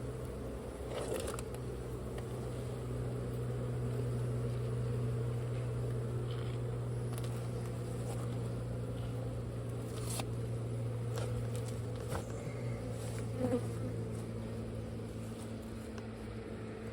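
Honeybees buzzing in a steady drone from a disturbed colony, with a few sharp clicks scattered through it.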